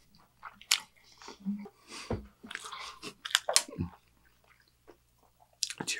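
Close-miked chewing of a burger: a string of sharp mouth clicks and short crunchy clusters over the first four seconds, then a pause, and another sharp click near the end.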